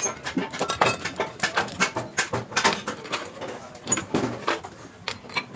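A rapid, irregular series of sharp taps and clicks, about three or four a second, like hand tools working on metal parts.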